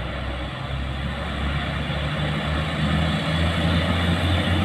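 Heavy diesel truck engine labouring up a steep climb, growing steadily louder and rising slightly in pitch as it comes closer.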